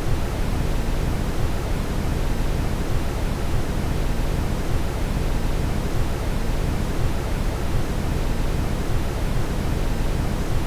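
Steady brown noise: an even, unbroken rushing hiss, heaviest in the low end.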